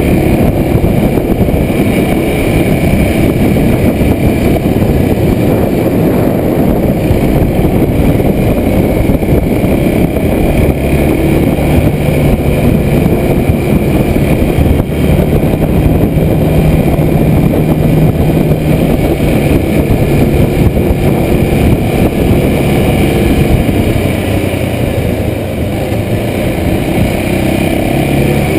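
Kawasaki Super Sherpa's 250 cc single-cylinder four-stroke engine running under way on an uphill climb, heard from a chest-mounted camera with heavy wind noise over the microphone.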